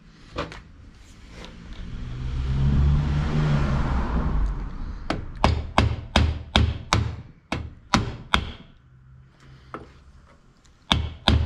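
A swelling low rumble, then a run of sharp hammer blows, about three a second. After a short pause a second run of blows starts near the end.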